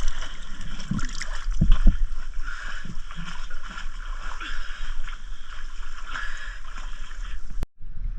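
Water sloshing and gurgling around the camera during spearfishing, with a few low thumps about one to two seconds in. The sound cuts out for an instant near the end.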